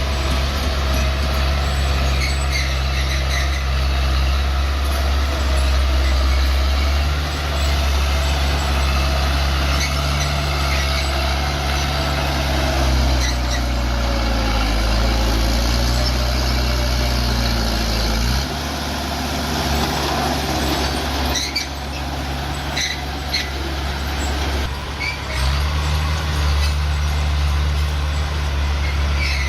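Bulldozer's diesel engine running hard and steady, with short squeaks and clanks from the machine. The engine note drops about two-thirds of the way through and picks back up a few seconds later.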